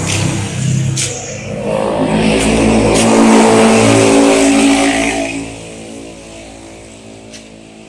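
A motor-like pitched sound that rises over the first few seconds, holds loud, then drops and fades away about five seconds in.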